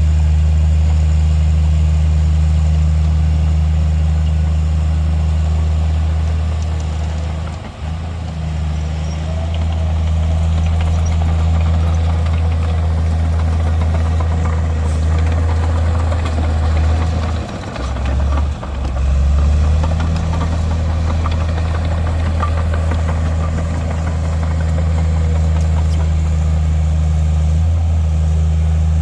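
Heavy diesel engine of a Komatsu bulldozer running steadily with a deep, constant hum. Its sound briefly drops twice, once about a quarter of the way in and again a little past the middle.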